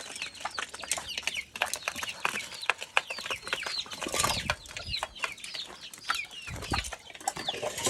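Chicks peeping: a steady run of short, high-pitched peeps that fall in pitch, about three a second, mixed with scattered sharp clicks and a brief rustling burst about four seconds in.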